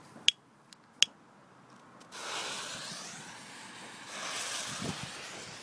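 Two sharp clicks, then a lit firework fuse hissing, coming on suddenly about two seconds in and swelling again a couple of seconds later.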